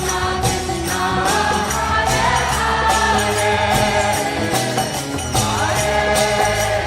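Devotional group singing in a kirtan style, with jingling hand percussion keeping a steady beat of a few strikes a second.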